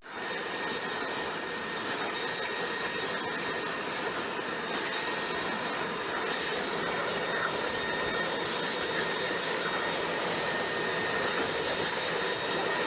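Leaf blower running steadily: a continuous rush of air with a high whine over it.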